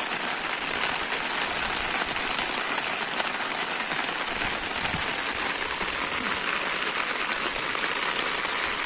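Heavy rain falling steadily: a dense, even hiss of drops on wet ground and standing water.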